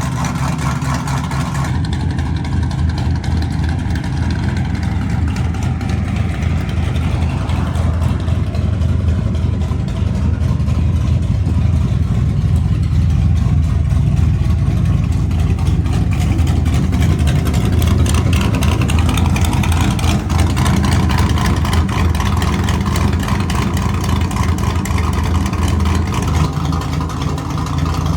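LS 5.3-litre V8 with a Sloppy Mechanics stage 2 cam, running steadily through its exhaust with a loud, deep rumble.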